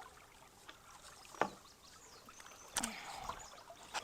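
Creek water sloshing and splashing around someone wading, with a sharp knock about a second and a half in and a louder splash near three seconds.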